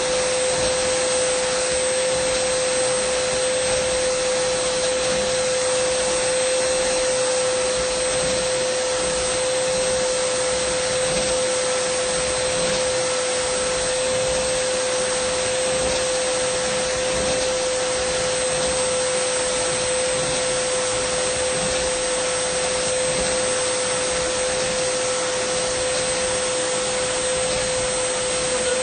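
Dyson vacuum cleaner running steadily: a constant whine at one pitch over a rush of airflow, with no change in speed.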